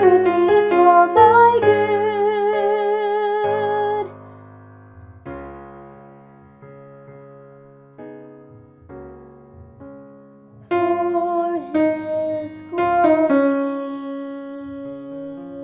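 A mezzo-soprano singing over piano accompaniment, holding a note with vibrato that ends about four seconds in. The piano plays alone for several seconds, then the voice comes back about eleven seconds in and settles on a long final note that fades slowly.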